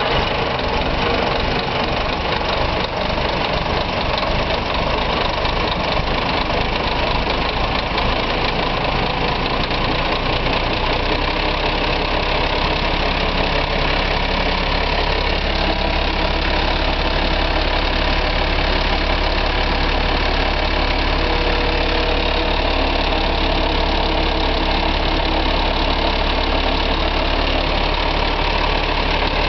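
Diesel engine of a Renault PR 180 MIPS articulated bus running just after starting. Uneven at first, it settles into a steady idle about ten seconds in.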